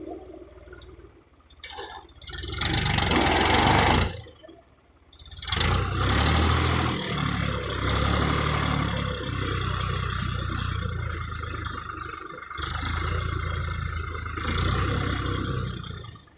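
Eicher 557 tractor's diesel engine running. A loud burst of noise comes about three seconds in, the sound nearly drops out around four to five seconds in, and then a steady engine drone resumes.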